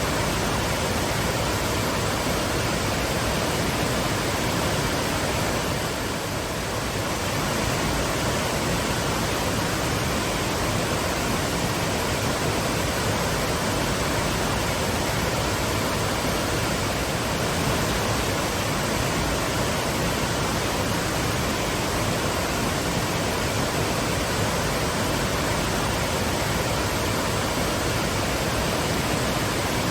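Twin waterfalls pouring steadily: a dense, even rush of falling water.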